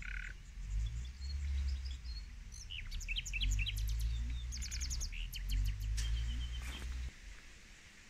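Small birds chirping, with a fast high trill in the middle, over a low rumble that cuts off abruptly about seven seconds in.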